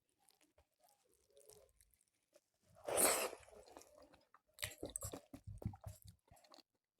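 Close-miked eating: one loud crunchy bite about three seconds in, then a quick run of chewing clicks.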